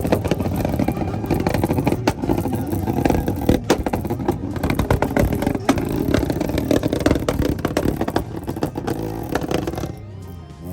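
A loud vehicle engine running close by, with a dense crackle and clatter. It drops away sharply about ten seconds in.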